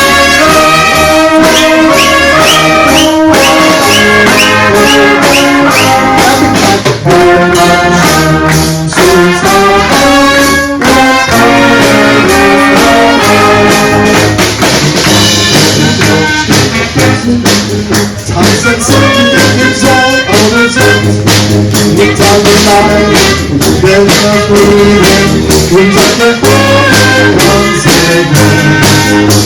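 Brass-band music: trumpets and trombones playing held notes over a steady beat.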